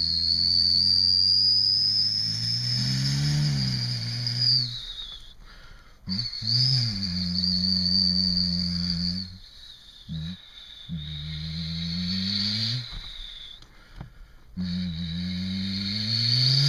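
A person's voice imitating a Dodge Cummins turbo-diesel: a low humming engine drone with a high turbo whistle on top. The drone rises in pitch several times like a revving engine, with short breaks for breath between runs.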